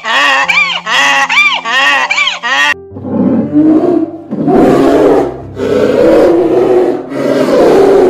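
A rapid series of repeated pitched calls, about three a second, for the first three seconds, then a bear growling four times, each rasping growl about a second long.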